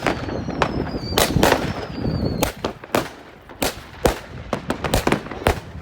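Fireworks going off from several directions: a rapid, irregular series of sharp bangs and crackles, with thin high whistles falling in pitch during the first two and a half seconds.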